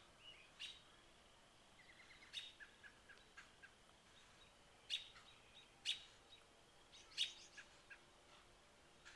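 Faint wild birdsong: a run of quick chirping notes and several sharper, scattered calls.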